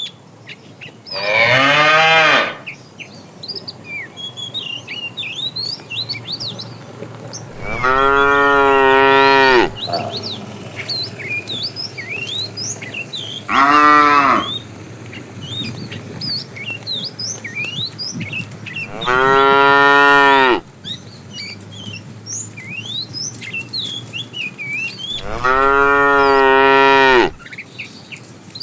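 Cattle mooing: five long moos of one to two seconds each, spaced about six seconds apart.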